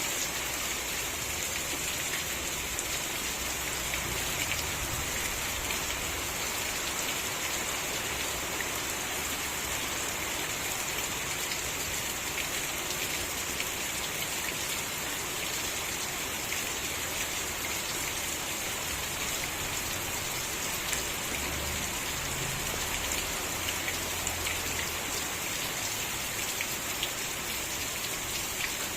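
Steady rain falling, an even hiss with many fine drop ticks and a faint low rumble underneath.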